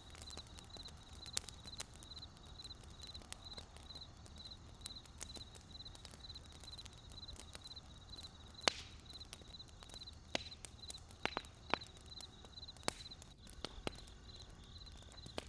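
Wood fire crackling, with irregular sharp pops, several of them loud in the second half. Behind it a faint high chirp repeats steadily two or three times a second.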